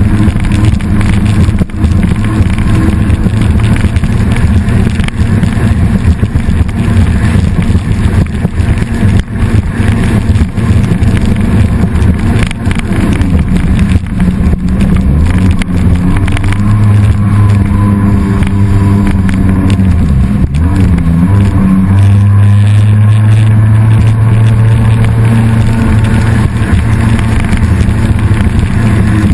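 Jet ski engine running at speed, its pitch dipping and coming back about twenty seconds in, then held steady.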